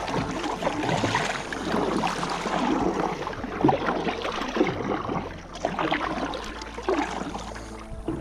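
Kayak paddle strokes splashing and water sloshing against the hull, swelling about once a second.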